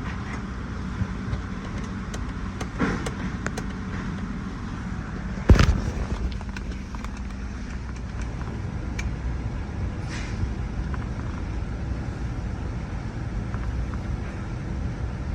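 Chevrolet Tahoe 5.3L V8 engine running steadily with a low rumble. A few light clicks are heard, and there is one sharp knock about five and a half seconds in.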